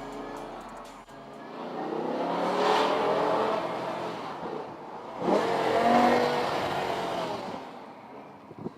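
BMW M5 E60's V10 engine on its stock exhaust, revved twice: a rev building to a peak about three seconds in and easing off, then a sharper second rev about five seconds in that fades away toward the end.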